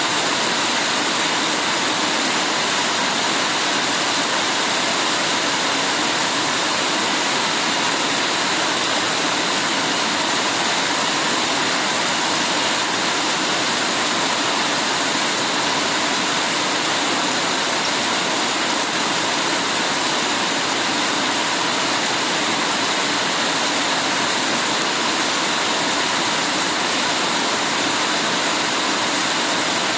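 Heavy rain falling steadily, an even rush of noise with no breaks or single drops standing out.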